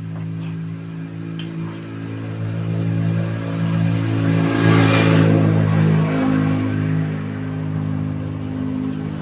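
A motor vehicle's engine running, growing louder to a peak about five seconds in as it passes, then easing off.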